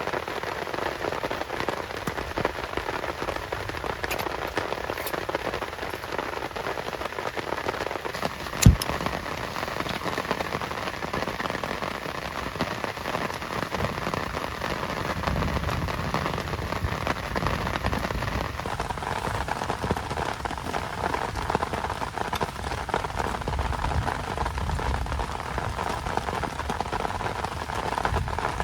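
Heavy rain falling and pattering steadily on surfaces, with one sharp knock about a third of the way through.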